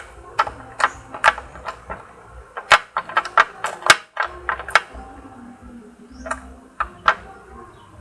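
A quick, irregular run of sharp clicks and taps over the first five seconds, thinning to a few single clicks after.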